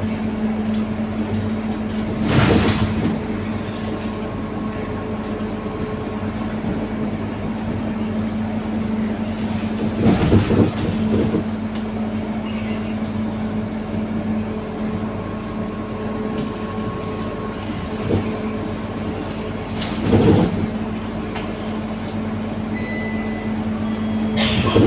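Scania K230UB city bus running with a steady engine drone, broken by a few short, loud bursts of noise.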